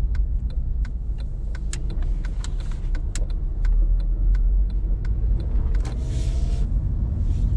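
Inside a car: a low, steady engine and road rumble with a regular ticking, about three ticks a second.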